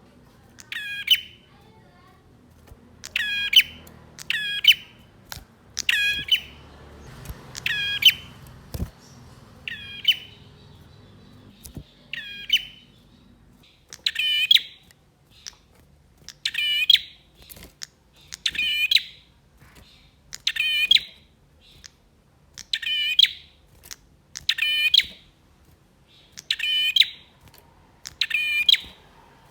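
Male prenjak (prinia) calling in a series of short, sharp, rapid trilled bursts, repeated about every one to two seconds.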